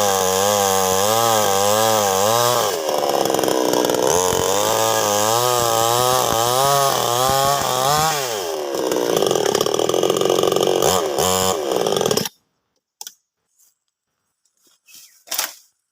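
Chainsaw running at speed, its engine pitch rising and falling over and over as it works through wood. It cuts off suddenly about twelve seconds in, leaving a few faint clicks.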